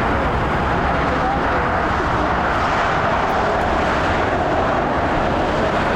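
Jet airliner engines running loud and steady, an even rush of noise with faint wavering tones in it.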